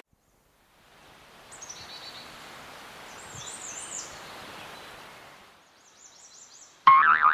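Outdoor ambience with small birds chirping, fading in after a moment of silence and fading out again. Near the end a loud boing sound effect, its pitch wobbling up and down, cuts in abruptly.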